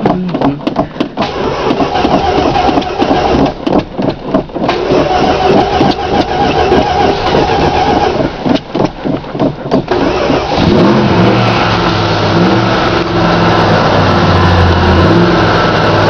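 A 1969 Plymouth Sport Satellite's 318 small-block V8 being cranked on a cold start after winter storage: about ten seconds of uneven cranking and stumbling, then it catches, revs up briefly and settles into a steady run.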